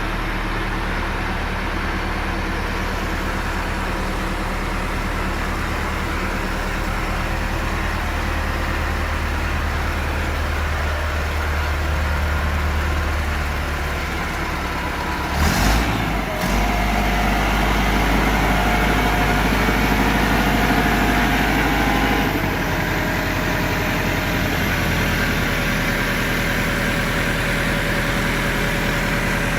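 Massey Ferguson MF 375 tractor's four-cylinder diesel engine running steadily. About fifteen seconds in there is a short loud burst of noise, after which the engine runs louder for about five seconds and then settles back.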